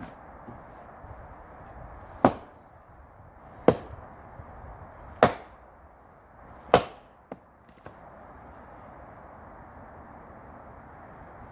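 Axe splitting firewood: four hard chops, evenly spaced about a second and a half apart, over a steady background hiss.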